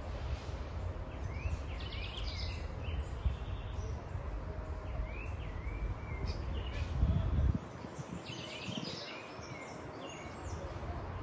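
Small birds chirping and calling repeatedly in short rising notes, over a low rumbling noise that drops away suddenly about two-thirds of the way through.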